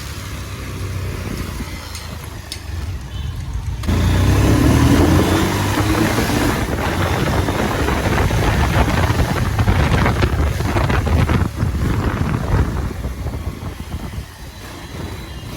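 Motorcycle running on the road, getting louder about four seconds in and easing off near the end.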